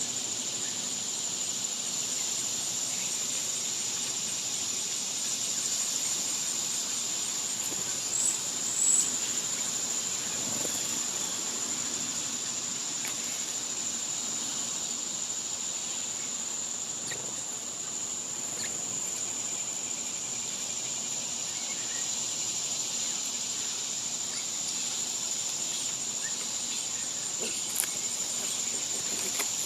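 Cicadas droning in one steady high buzz, with a couple of short high chirps about eight to nine seconds in.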